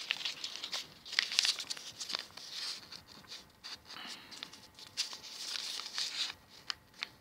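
A sheet of A4 paper being folded and creased by hand: irregular rustling and crinkling with many short, sharp creasing clicks.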